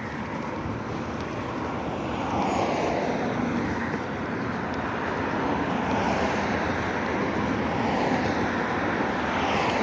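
Road traffic going past close by: the steady noise of passing vehicles grows louder about two seconds in, then swells and eases as they go by.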